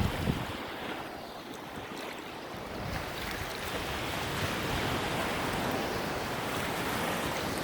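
Ocean surf washing onto the beach, with wind buffeting the microphone; the wash of the waves swells about three seconds in.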